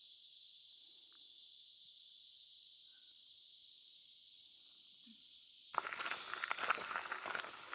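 Steady, high-pitched insect chorus that cuts off abruptly a little under six seconds in, followed by irregular footsteps and rustling on the trail.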